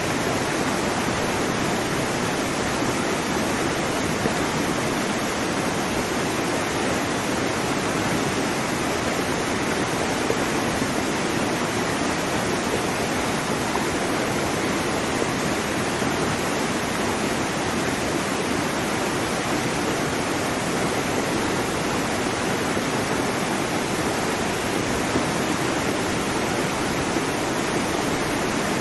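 Waterfall: falling water running steadily and evenly, with no breaks.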